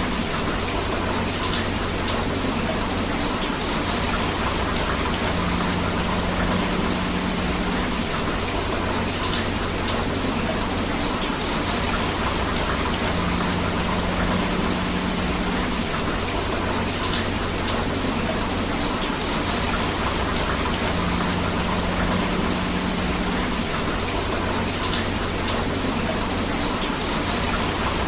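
Steady rain together with a flowing river, an even, dense rush of water with no letup. A faint low hum and a faint high hiss recur about every eight seconds, as in a repeating loop.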